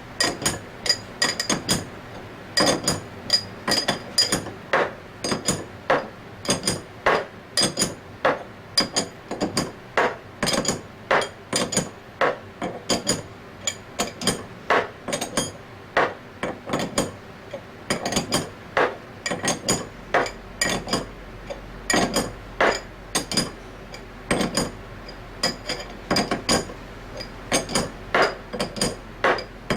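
Hammer repeatedly striking a steel installation fixture to drive a needle bearing into a scroll compressor's scroll, about two blows a second with a short metallic ring after each one. The bearing is being tapped home until it seats and stops.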